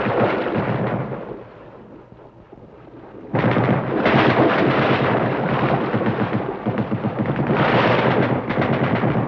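Combat sounds from a Vietnam War film soundtrack: loud gunfire and explosions. The noise dies away over the first second or so, comes back suddenly about three seconds in, and turns into rapid gunfire near the end.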